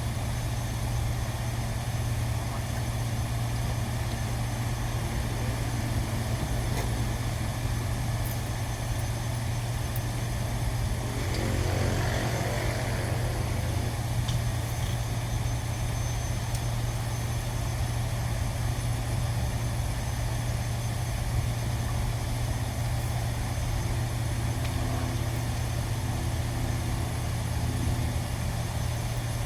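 A steady low mechanical hum, like an engine or motor running, with a brief louder swell about eleven to thirteen seconds in.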